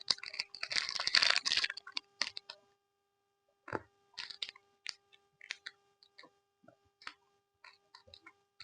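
Close-up chewing of Yupi gummy candy: short wet mouth clicks and smacks, scattered irregularly. The first couple of seconds hold a dense crackle before the chewing sounds come one by one with short gaps.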